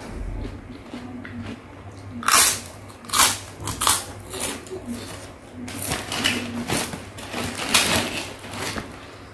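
Close-up crunching and chewing of a crisp puffed cracker (kerupuk): a string of loud, crackly crunches in clusters from about two seconds in, over a low steady hum.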